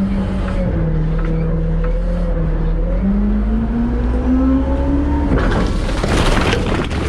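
Front-load garbage truck's diesel engine running, its pitch rising steadily over a couple of seconds as it revs up. About five seconds in, a loud rattling clatter breaks in over it.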